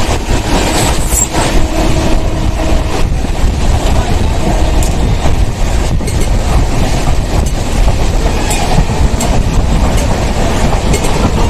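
Poorva Express passenger train running along the line, heard from on board: a steady low rumble of wheels on track with scattered clicks and clatter from rail joints.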